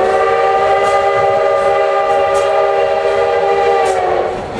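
Steam whistle of Baldwin 2-8-2 locomotive #152 blowing one long, steady blast, a chord of several tones, cutting off shortly before the end. Heard from a passenger car behind the locomotive.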